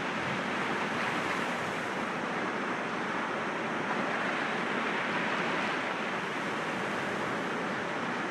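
Sea waves breaking against rocks, a steady wash of surf with only gentle swells in level.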